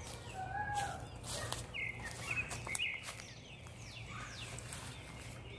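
Birds chirping: scattered short chirps and a few quick high falling notes, over a faint steady low hum.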